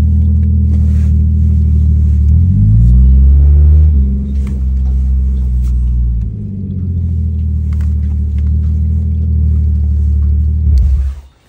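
BMW car's engine heard from inside the cabin, a deep steady drone while creeping along in drive, its pitch rising and falling briefly between about two and a half and four seconds in. It cuts off suddenly shortly before the end as the engine is switched off.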